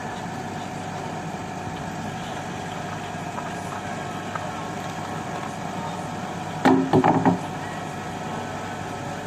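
Steady engine-like drone with several held tones. A brief, loud pitched sound cuts in about seven seconds in.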